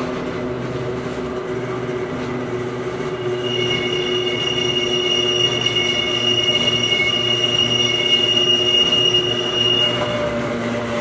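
Interior running sound of a Hakone Tozan Railway Moha 1 car: a steady hum and whine from its nose-suspended traction motors and gears. About three seconds in, the wheels start a high, steady squeal that lasts about six seconds and then fades away.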